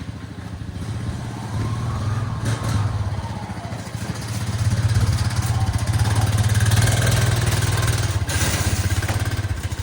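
Engine running steadily with a low, even pulse, getting louder about halfway through.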